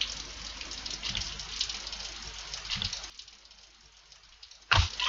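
Steady rain with a patter of drops, cutting off abruptly about three seconds in. Near the end come two sharp thumps, the first the loudest sound here.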